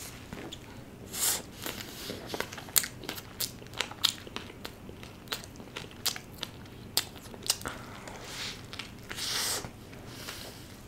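Close-miked biting and chewing of a large chowmein burger (garlic noodles and a potato patty in a bun): many short, sharp wet mouth clicks and crunches at an irregular pace, with a few longer soft rasps about a second in and near the end.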